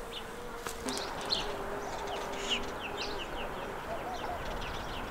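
Small songbirds chirping outdoors in short high notes, with a run of quick falling notes near the middle, over the faint steady buzz of a flying insect.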